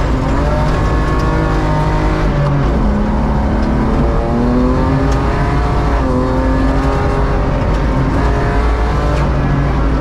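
BMW E36 rally car's engine heard from inside the cabin at full race pace on gravel. The engine pitch repeatedly climbs and then drops back, as through gear changes, over a steady rumble of road noise.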